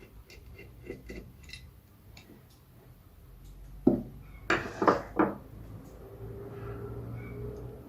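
Metal parts clinking and knocking together as they are handled, with light clicks at first and a cluster of four loud clanks about four to five seconds in, followed by a faint steady hum.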